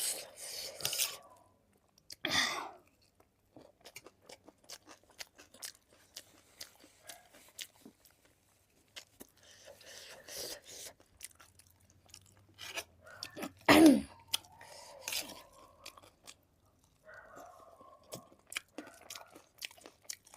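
A person chewing food close to the microphone: steady crunching and wet mouth clicks, with a few louder bites or swallows near the start and about two-thirds of the way through.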